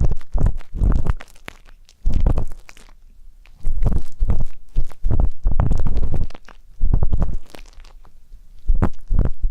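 An ear-cleaning tip rubbing and scraping at a microphone's ear in close-up, in irregular strokes with a heavy low rumble. There are short pauses about a second in, about three seconds in, and again about seven seconds in.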